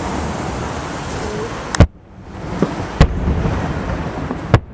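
Fireworks shells bursting in the sky: a quick double bang a little under two seconds in, a softer pop, then single sharp bangs about three and four and a half seconds in, over a steady rumbling hiss from the display.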